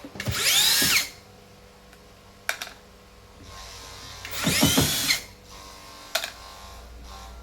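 A small power drill-driver is run in two short bursts, its motor whining up and back down in pitch each time. Sharp clicks fall in between.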